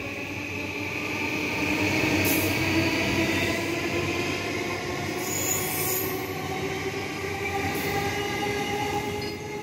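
JR East E235 series electric train pulling away: the traction motor whine rises slowly in pitch as it accelerates, over the running noise of wheels on rails.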